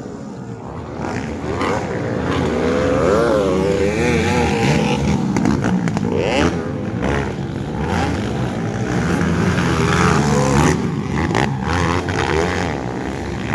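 Motocross motorcycle engines revving hard as the bikes race, the engine pitch repeatedly rising and falling with throttle and gear changes, several bikes overlapping.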